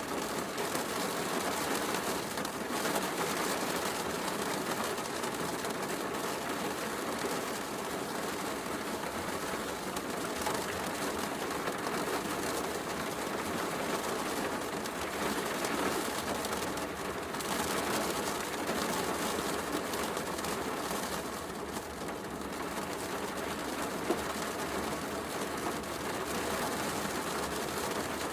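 Steady heavy rain hiss mixed with the soft crackle of a wood fire, with one sharper crackle near the end.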